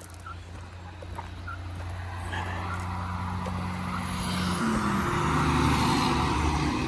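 Loaded logging truck approaching along the highway, its engine and tyre noise growing steadily louder.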